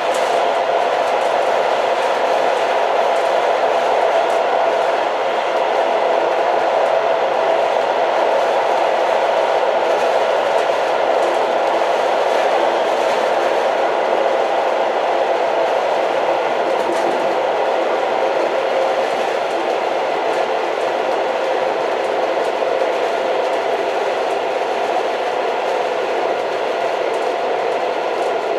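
Old train running steadily, a continuous even noise with no breaks or sudden events.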